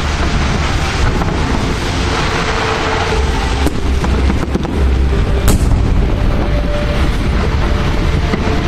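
Fireworks display going off: a continuous low rumble of shell bursts and crackle, with sharp bangs about a second in, near four seconds, and the loudest at about five and a half seconds.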